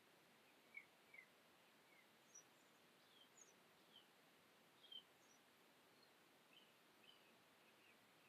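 Near silence: faint room hiss with scattered faint bird chirps, short high notes coming irregularly about one or two a second.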